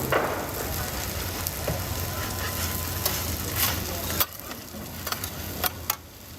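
Food frying and sizzling on a hot pan, with scattered sharp clicks. The sizzle drops to a quieter level about four seconds in.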